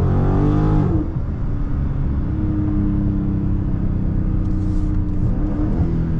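Dodge Charger's 392 Hemi V8, heard from inside the cabin. The revs climb for about a second, dip briefly, then hold a steady drone at highway speed.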